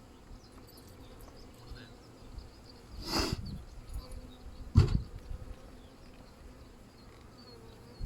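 Honeybees buzzing around an open hive, with a brief rushing noise about three seconds in and a sharp thump just before the five-second mark.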